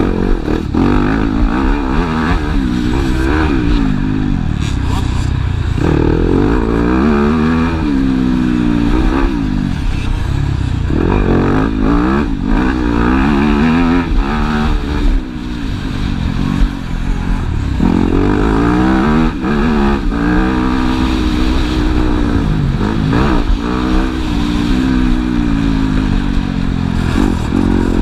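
Motocross bike engines racing on the track, revving hard again and again. The pitch climbs through each gear and drops back at every shift or throttle-off.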